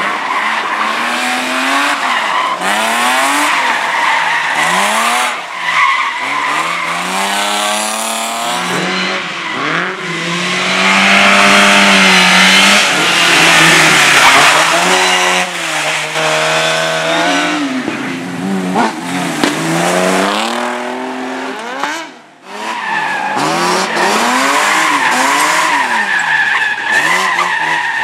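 Slalom car driven hard through a cone course: the engine revs up and drops back again and again between gates, with tyres squealing. The engine noise and squeal are at their loudest about halfway through and break off briefly for a moment near the end.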